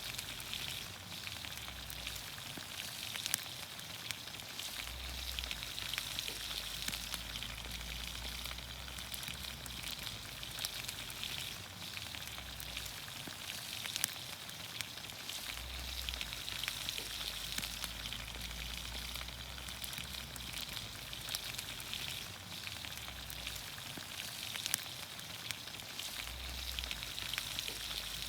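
Vegetables frying in olive oil over a campfire: a steady sizzle with many small crackles. Three louder sharp pops stand out, spaced several seconds apart.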